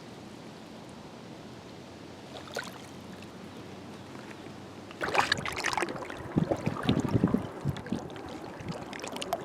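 Small waves lapping and splashing at the water's edge: a soft steady wash at first, then suddenly louder and choppier, with irregular splashes, about halfway through.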